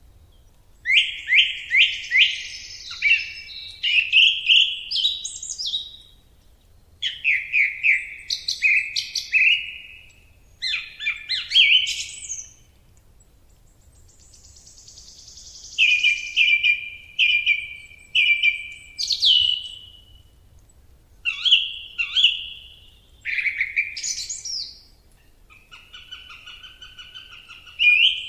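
A songbird singing: phrases of quick repeated chirping notes, each lasting a second or two, with short pauses between them.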